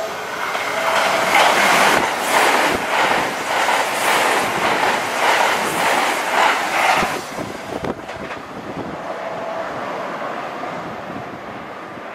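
Electric multiple-unit train passing close by at speed: a loud rush of wheel and air noise with a rhythmic clatter as the wheels cross rail joints. It drops off sharply about seven and a half seconds in, leaving a softer receding rumble.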